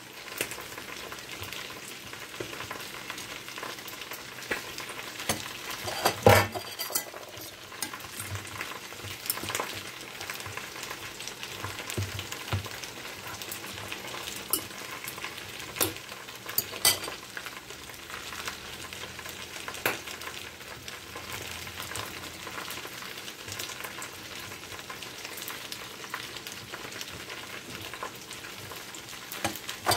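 Chicken frying in oil in a pan, a steady sizzle, with scattered clicks and taps of a brush and fork against an enamel pot and a louder knock about six seconds in.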